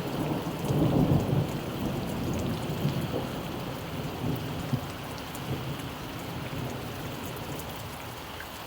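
Steady rain falling, with a low rumble of thunder that swells about a second in and slowly fades.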